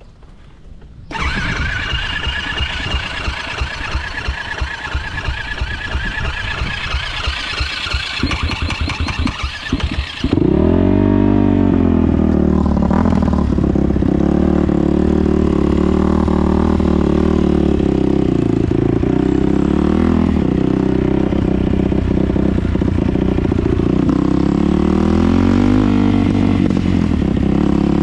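A motor vehicle engine. About a second in, it starts running with a fast, dense rattle. About ten seconds in, it switches abruptly to a lower, steadier engine note whose pitch dips and comes back up a few times, as with small throttle changes.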